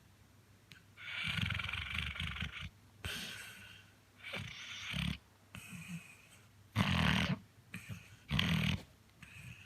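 Chocolate Labrador retriever snoring in its sleep: a run of irregular snoring breaths, the first long and drawn out, then shorter ones, with two louder snores near the end.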